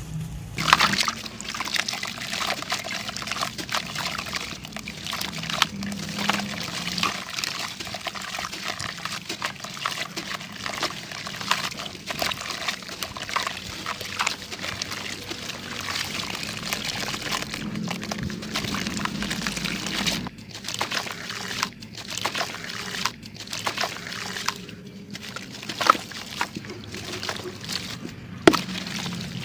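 Clumps of sand crumbling and pouring close to the microphone: a dense, continuous fine crackle with a few sharper cracks, two of them near the end.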